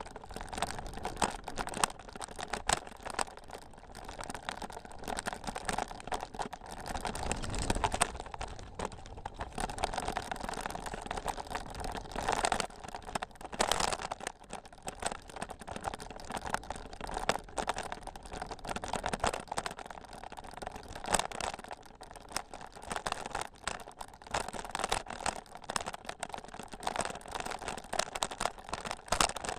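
Bicycle riding over a rough, rutted dirt trail: tyres crunching and the bike rattling in many quick, irregular clicks and knocks as it bounces.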